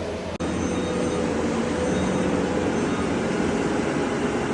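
Engine of farm machinery running steadily, with a brief cut-out in the sound about half a second in.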